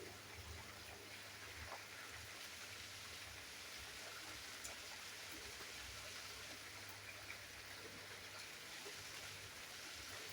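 Steady rain falling, a faint even hiss with a few scattered drops ticking.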